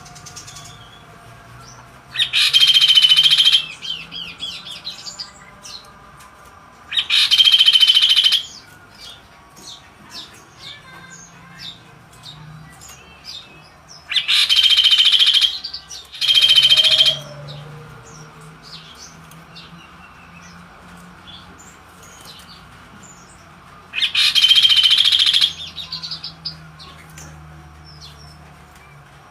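Kaso-kaso bird singing loud and vigorous ('gacor dor'): five harsh, buzzy song phrases of about a second each, with soft chirps between them.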